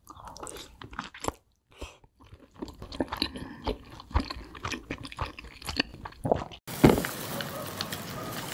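Close-up chewing and crunching of fried chicken wings, with many short crackles and bites. About two-thirds of the way in, the background suddenly gets louder and there is one loud thump.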